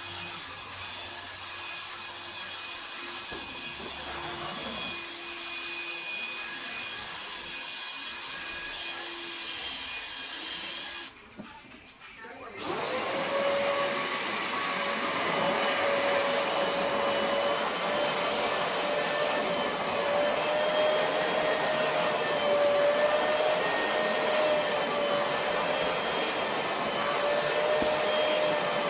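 Vacuum cleaner running steadily with a whine. About eleven seconds in it cuts out for a second or so, then comes back louder with a higher, steady whine.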